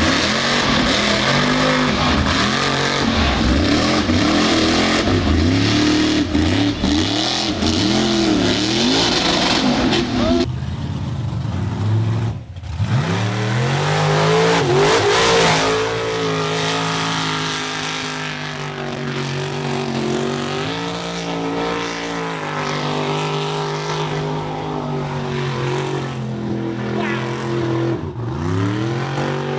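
Mud bog trucks' engines revving hard at high rpm, the pitch rising and falling with the throttle. The engine pitch climbs sharply about twelve seconds in and again near the end.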